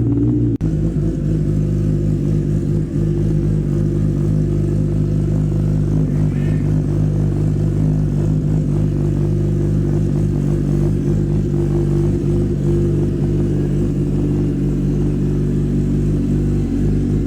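Kawasaki ZX-10R inline-four superbike engine running at a fairly steady speed, with a brief break about half a second in.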